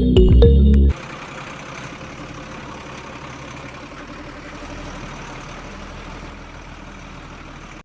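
Background music for about the first second, then cuts off; a small motor runs steadily for the rest, with an even whirring noise.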